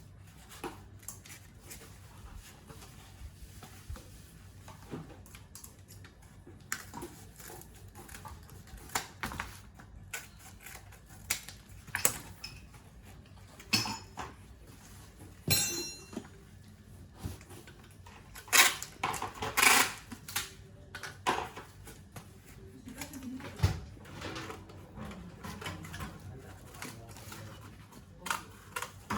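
Metal objects being handled and set down: irregular clinks, knocks and clatters, one with a short metallic ring about halfway through and a cluster of louder knocks a little after.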